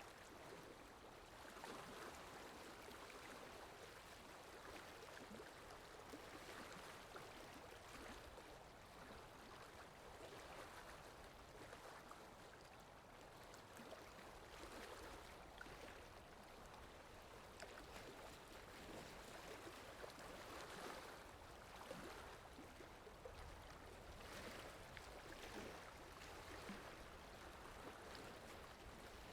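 Faint ocean waves washing ashore: a steady rush of water that swells and eases irregularly.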